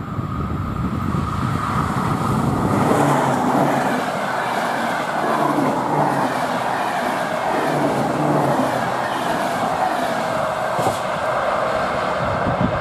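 A train running past: steady running noise with a whine that falls slowly in pitch in the second half.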